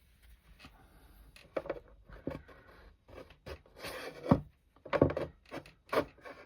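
Palette knife scraping across wet watercolour paper, lifting out paint for texture: a run of short, irregular scrapes that grow louder in the second half.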